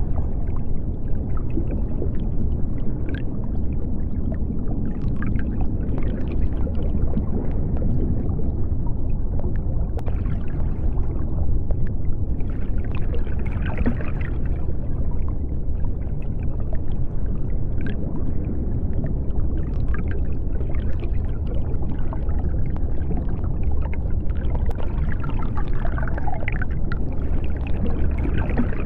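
Underwater ambience of the deep sea: a steady low rumble with faint, scattered bubbling and gurgling higher up.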